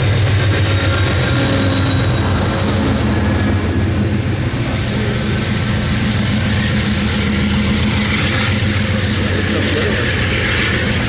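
Diesel locomotive of an Amtrak Pacific Surfliner passenger train running, a steady low engine hum over rumbling train noise.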